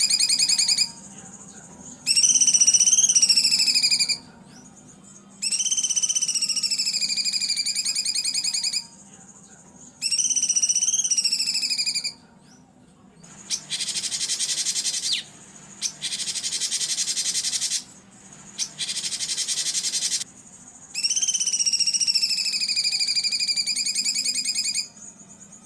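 Songbird masteran song given in loud, repeated warbling phrases that rise and fall in pitch, each about two seconds long. Midway the bird gives three harsh, buzzy bursts, then one more warbling phrase.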